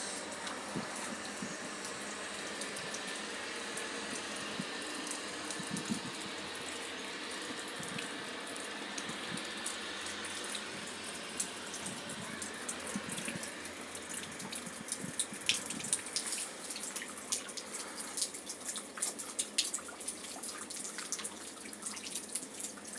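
Steady rush of running water, with many irregular sharp drips or ticks coming in over it from about two-thirds of the way in.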